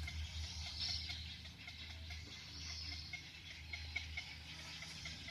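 Faint outdoor ambience: a low wind rumble on the microphone, with short distant bird chirps repeating now and then.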